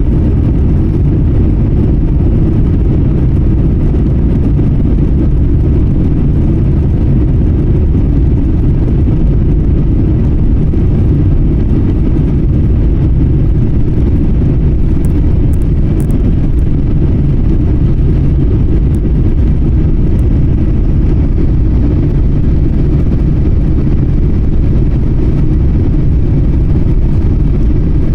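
Airbus A350's Rolls-Royce Trent XWB engines and airflow heard inside the cabin as a loud, steady low roar, through a phone pressed against the window.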